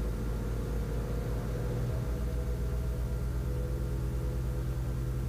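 Twin piston engines of a Piper Navajo running at low power on the ground, a steady drone with a fast pulsing beat; the pitch shifts slightly about two seconds in.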